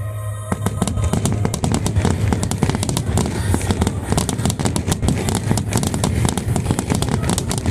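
A large aerial fireworks display with dense, rapid crackling and popping from many bursting shells, starting about half a second in. A heavy low rumble runs beneath it.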